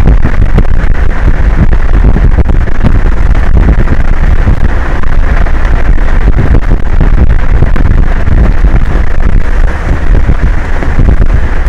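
Strong wind buffeting an outdoor microphone: a loud, steady noise with no breaks.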